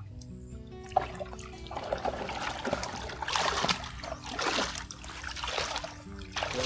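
Pond water splashing and trickling in irregular bursts as fish are caught by hand or net, starting about a second in.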